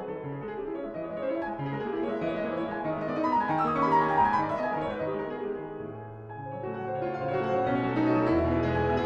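Background piano music: a flowing line of notes over held low bass notes that come in about two thirds of the way through.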